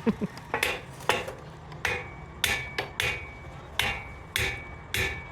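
Hand hammer striking metal parts of a truck wheel hub in repeated blows, about ten in all, roughly one every half second, each with a short metallic ring.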